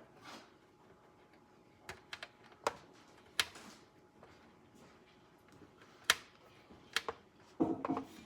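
Scattered sharp clicks and taps of small parts being handled and fitted during assembly, with a quick cluster of knocks near the end.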